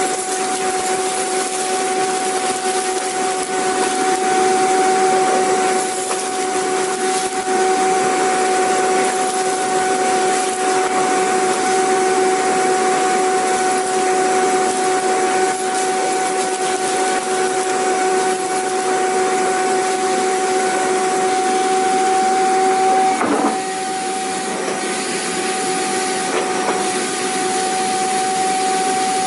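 Vacuum cleaner motor running steadily: a constant whine over a broad hiss. About three-quarters of the way through there is a brief break in the sound, after which it runs slightly quieter.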